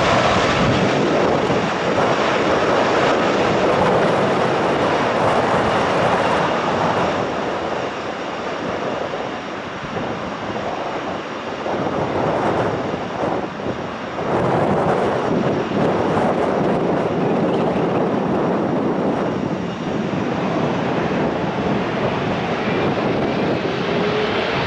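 Aircraft engine noise: a loud, steady rush that eases about a third of the way through, then builds again.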